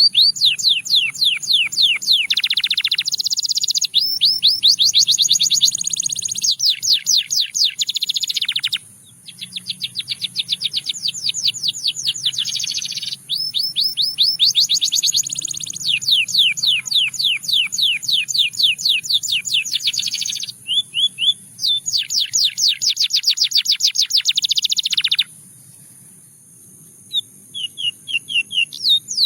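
A canary singing: rapid trills of repeated sweeping notes, phrase after phrase, with the note type changing every second or few, broken by brief pauses about nine seconds in and near the end.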